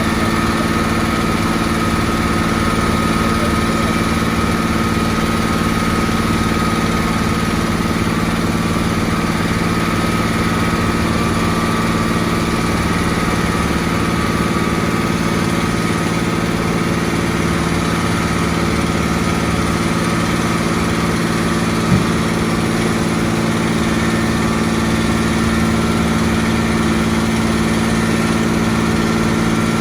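Construction machine's engine running steadily at a constant speed, with one brief knock about two-thirds of the way through.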